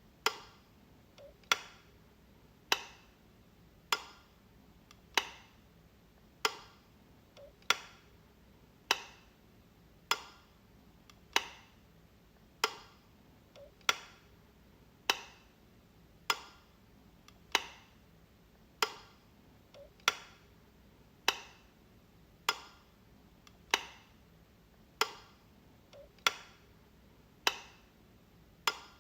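Light switch being flicked, giving a sharp click about every second and a quarter, some with a fainter click just before.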